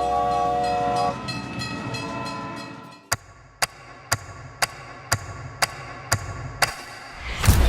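Train horn sounding a steady chord for about a second, then fading. Evenly spaced clicks follow, about two a second, like wheels clacking over rail joints, and a low rush comes near the end.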